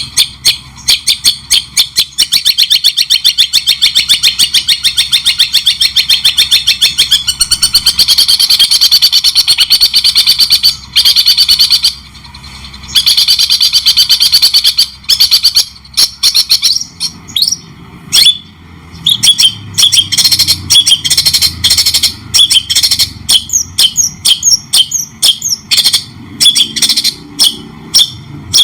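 Loud, fast songbird song in the chattering style of the long-tailed shrike (cendet): dense rapid-fire repeated notes that break off briefly about eleven seconds in, then turn into separate quick down-slurred calls. It is a masteran tutor recording played to teach caged songbirds.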